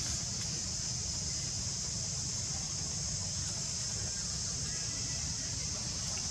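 Steady high-pitched insect chorus, with a low rumble of wind on the microphone beneath it.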